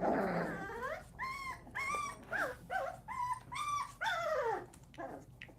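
Puppies yelping and whining: a rough, noisy cry at the start, then a quick string of about seven short high-pitched cries, each dropping in pitch at its end.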